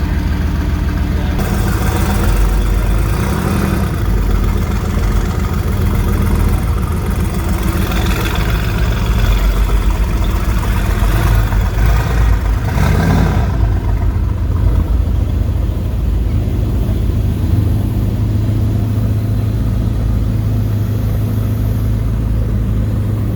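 Mercedes-AMG GT's 4.0-litre twin-turbo V8 being revved in repeated surges, then settling back to a steady idle about two-thirds of the way through.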